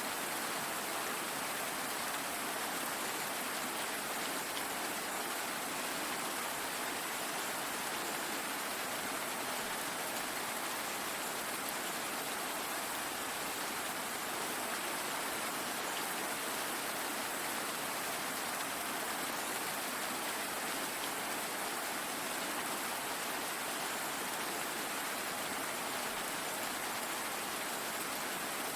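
Steady rain falling, an even hiss of drops on a surface that holds constant throughout.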